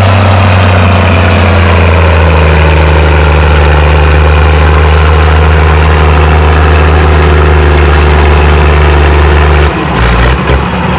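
Massey-Harris 97 tractor engine running hard under load while pulling the sled, its pitch sagging a little in the first couple of seconds and then holding steady. Near the end the engine note drops away suddenly as the tractor stops its pull.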